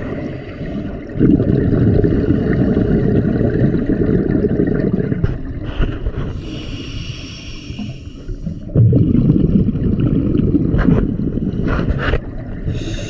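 Scuba diver breathing through a regulator, recorded underwater: a hissing inhalation, then a long low rumble of exhaled bubbles, twice over.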